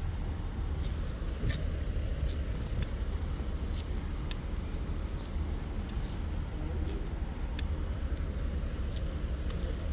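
Steady low engine rumble, with scattered short sharp clicks.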